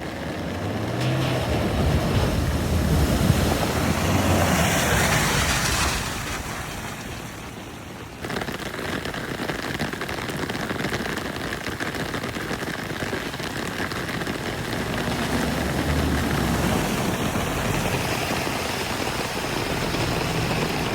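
Toyota Hilux pickup truck driving through water: its engine runs under a steady rush of splashing water. The spray is loudest in the first few seconds, falls away, then cuts back in abruptly about eight seconds in.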